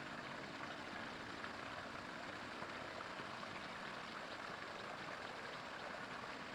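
Faint, steady rush of running water, with small scattered drips or splashes.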